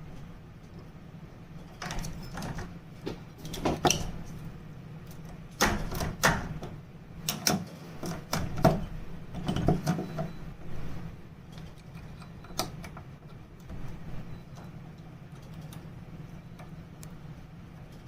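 Irregular metallic clicks and knocks from an old doorknob and its latch parts being handled and worked, thickest in the first half and thinning out later, over a steady low hum.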